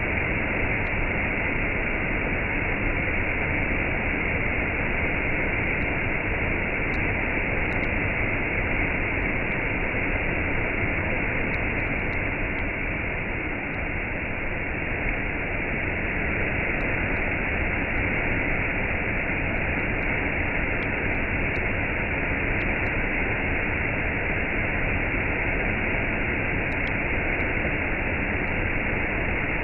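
Waterfall with a cascade: water falling in a steady, unbroken rush.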